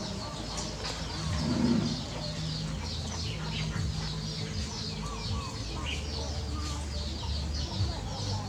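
Birds chirping: a dense run of short, high, falling chirps, several a second, over a low steady hum, with a brief louder low sound about a second and a half in.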